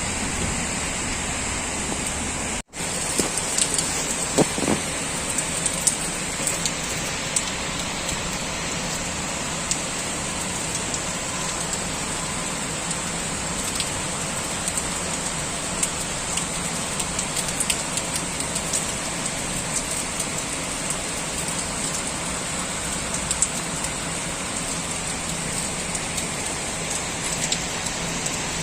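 Heavy typhoon rain falling steadily, with many sharp drops striking nearby surfaces. A brief gap in the sound comes about two and a half seconds in.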